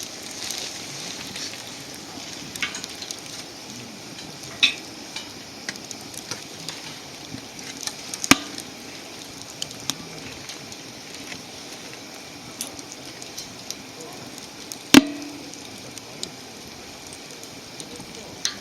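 Wood fire crackling: a steady hiss with scattered sharp pops, the loudest about eight seconds in and again about fifteen seconds in.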